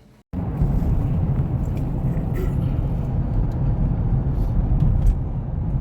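Steady low rumble of a vehicle in motion. It starts abruptly shortly after the start and holds level throughout.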